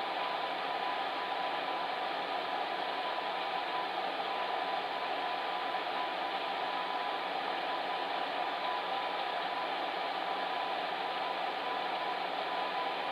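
Fan heater running steadily: an even rushing of air with a faint steady hum, no changes in speed or pitch.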